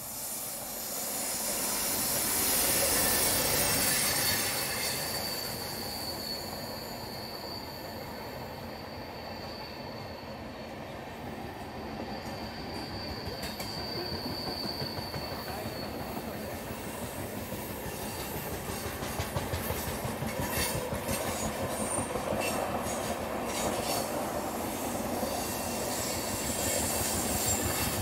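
Tamil Nadu Express passenger train running past. A high steady squeal rings over the rumble through the first half, then coach wheels clatter rapidly over rail joints, growing louder toward the end.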